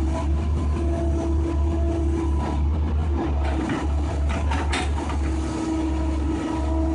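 Case track hoe excavator's diesel engine running under load, with a hydraulic whine that comes and goes. A run of clatters and knocks sounds about three to five seconds in.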